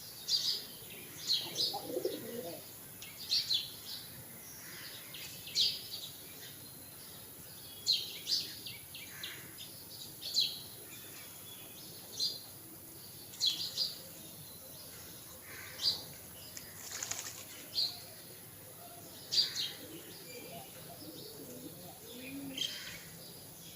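Pigeons bathing, flapping their wings and splashing in water in short bursts about every second or so.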